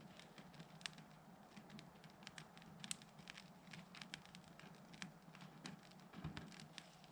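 Campfire crackling: quiet, irregular sharp pops and snaps of burning wood, several a second.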